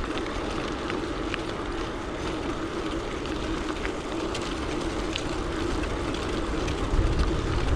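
Gravel bike rolling along a road: a steady hum of the tyres, with scattered light ticks.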